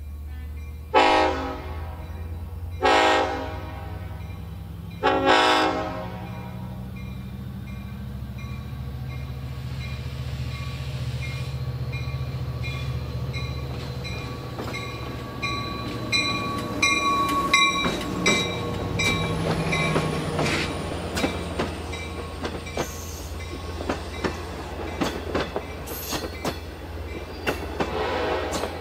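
Long Island Rail Road diesel locomotive sounding its horn in three blasts about a second apart, then its engine drone as it comes up to the crossing. A grade-crossing bell rings steadily, and from about halfway through, the wheels of the bi-level coaches click over the rail joints as the train passes.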